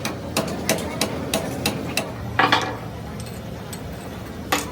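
Hammer blows on metal: a quick run of about six strikes, roughly three a second, then a pause and one more strike near the end.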